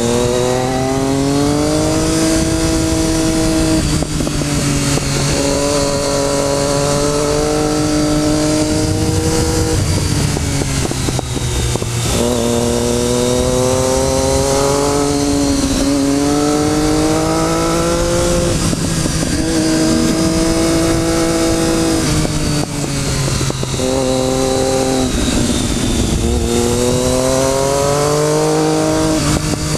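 Motorcycle engine running hard on a canyon ride, its pitch climbing under throttle and falling back several times as the rider accelerates, shifts and eases off, with steady wind rush over it.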